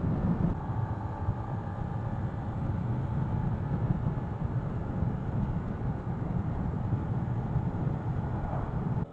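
125cc motorcycle engine running steadily while riding at road speed, under a dense, even rumble of wind and road noise.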